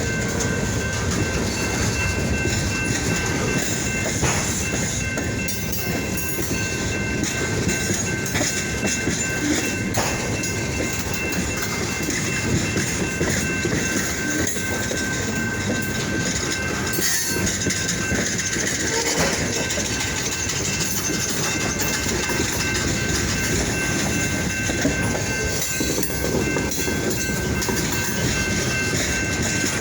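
Freight train cars rolling along the track with a steady rumble, and an occasional knock from the wheels or couplers.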